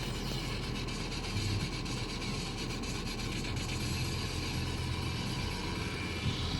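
Steady road and engine noise inside a moving car, with a low hum and no change through the stretch.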